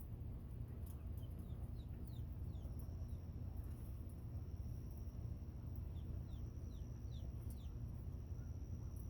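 Bobwhite quail chicks peeping: short, high, falling chirps in two little runs, over a steady low rumble.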